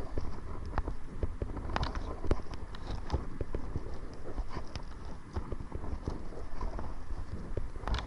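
Kayak paddling into the wind: irregular small clicks, knocks and splashes of the paddle and water against the boat, over a steady low rumble of wind on the microphone.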